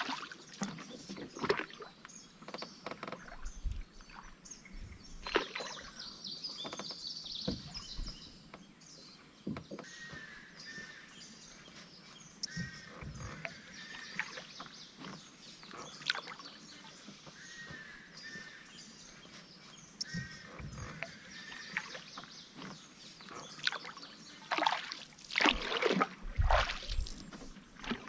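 Canoe paddle strokes in river water: irregular splashes and drips, with a few low knocks. The strokes are busiest near the start and again near the end.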